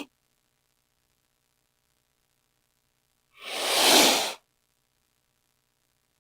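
A single hiss from a king cobra, about a second long, starting just over three seconds in, building up and then cutting off.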